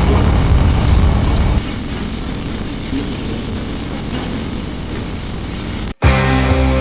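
Motorcycle riding along: engine rumble mixed with wind rush, dropping in level about a second and a half in. Near the end it cuts off abruptly and music begins.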